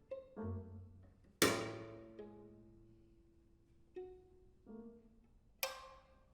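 Violin, cello and piano trio playing sparse contemporary chamber music: short separated notes with quiet gaps between them. A loud, sudden accented attack about a second and a half in rings away slowly under a held note, and a few more short notes follow near the end.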